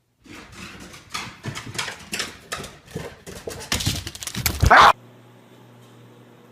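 A dog making a string of short, noisy vocal sounds, ending in a louder, rising cry that breaks off abruptly; then only a faint steady hum.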